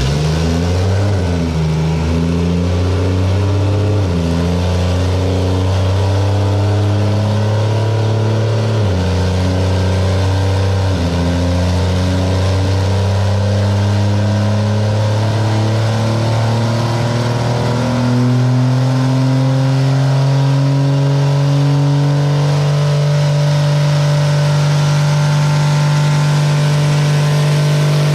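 Cummins diesel six-cylinder in a drag truck running under load on a chassis dyno. Its pitch climbs slowly for a long stretch, with several sudden steps in pitch along the way.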